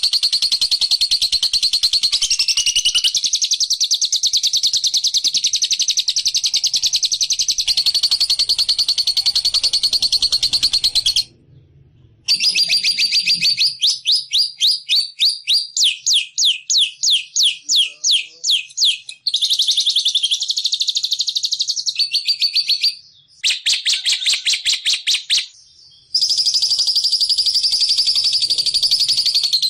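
Lovebird ngekek: a long, fast, high-pitched chattering trill, broken by a few short silences. In the middle stretch it turns into separate sharp chirps, about four a second.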